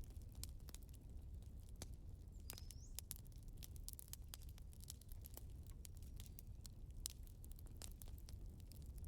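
Wood fire burning: faint, irregular crackles and pops of burning logs over a low rumble, with a brief rising whistle about two and a half seconds in.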